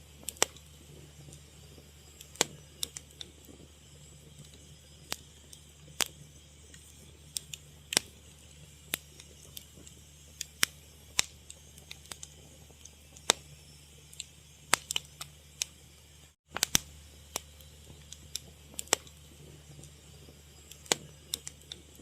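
Wood fire crackling: irregular sharp pops and snaps over a steady low rumble, with the sound cutting out for an instant about sixteen seconds in.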